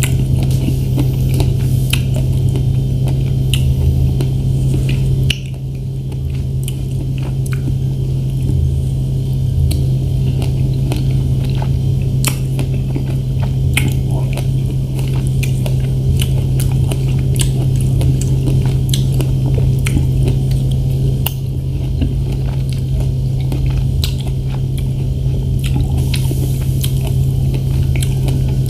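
Someone biting and chewing strawberries close to the microphone, with many small sharp mouth clicks, over a loud steady low hum.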